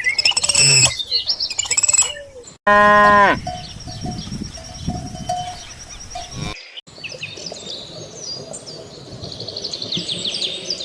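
Birds chirping and calling, broken about two and a half seconds in by a loud, low farm-animal call that falls in pitch and lasts under a second. After it comes a faint thin tone, then more high bird chirping.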